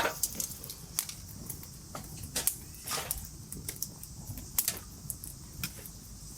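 A string of sharp, irregular clicks and taps over a steady high chirring of insects.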